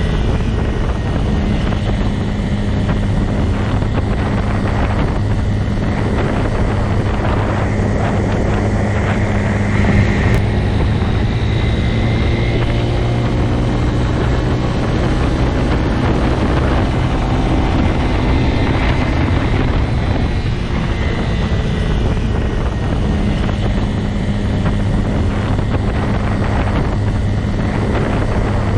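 Motorcycle engine running steadily at an even speed throughout. Fainter tones rise and fall in the middle stretch.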